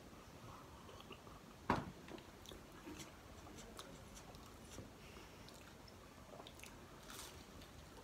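People chewing and biting food, with faint wet clicks and light crackles, and one sharp knock a little under two seconds in that is the loudest sound.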